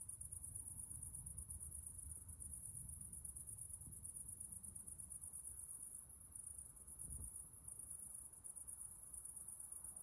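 Summer night insect chorus: a steady, very high-pitched, fast-pulsing trill running without a break, with a faint low rumble underneath.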